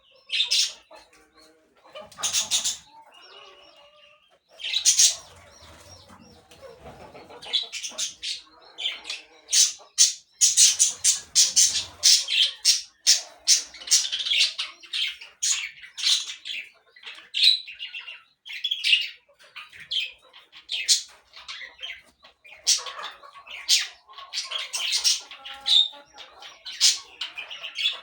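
Parakeets chattering: a dense run of short, sharp, high-pitched chirps and squawks that grows busier about a third of the way in, with a few stretches of lower flutter or rustle underneath.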